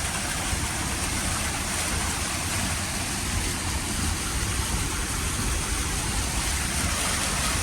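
Steady rushing noise of fast-flowing floodwater, with a low vehicle engine rumble underneath.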